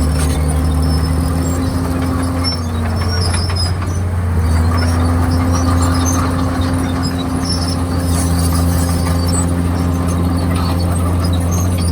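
Komatsu D51PX crawler bulldozer's diesel engine running steadily under load, its pitch sagging briefly about three seconds in and then climbing back, with scattered short high squeaks from the tracks.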